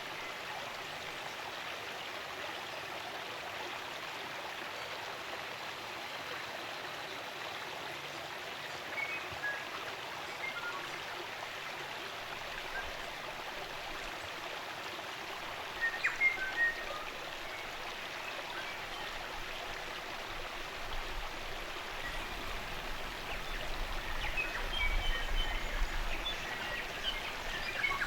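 Stream water running steadily, with occasional short bird chirps: a few just past halfway and a livelier cluster near the end. A low rumble joins briefly near the end.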